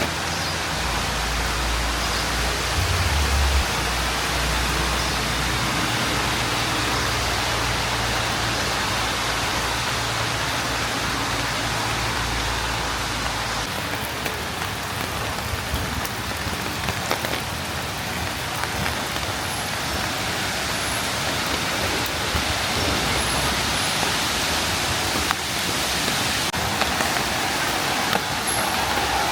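Steady hiss of rain falling on surfaces. For about the first half a low rumble runs underneath, then cuts off suddenly.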